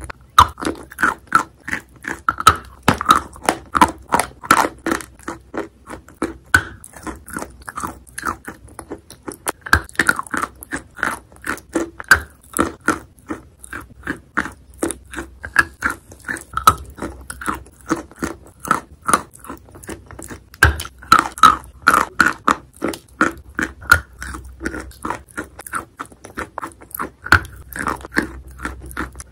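Close-up mouth sounds of a person biting into and chewing a coated ice-cream bar: crisp crunches and crackles from the brittle coating, several a second, with wet chewing between bites.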